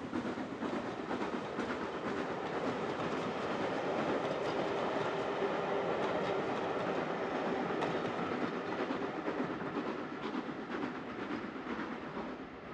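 Train rolling past on the rails, wheels clicking over the rail joints, growing louder toward the middle and fading away near the end.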